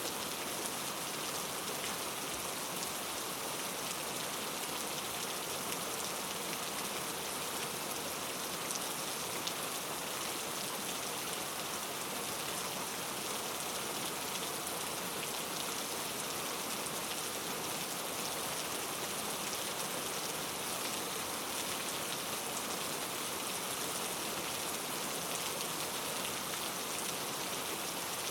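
Steady rain falling, a dense even hiss of drops pattering on a surface with no thunder.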